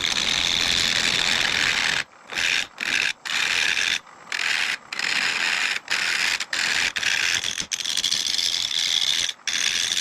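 Turning gouge cutting into a spinning mesquite blank on a wood lathe: a steady hissing cut, broken by many brief gaps as the tool comes off the wood.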